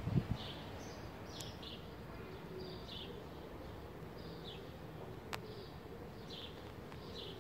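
A bird calling over and over in short, high, falling chirps, about one a second, over steady outdoor background noise. A low thump just after the start and a single sharp click about five seconds in.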